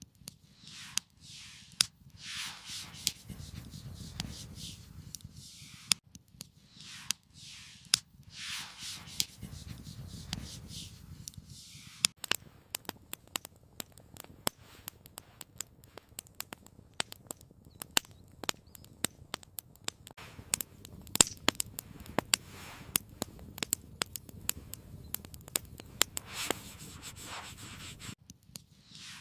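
Campfire wood crackling, with many sharp pops that come thicker in the second half. In the first half, swishing, rubbing handling noises come and go between the pops.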